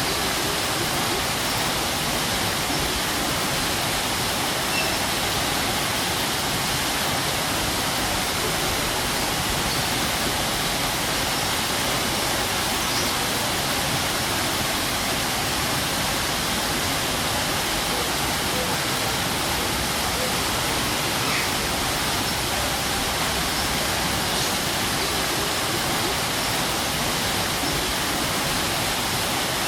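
Strong waterfall: a steady, dense rush of falling water.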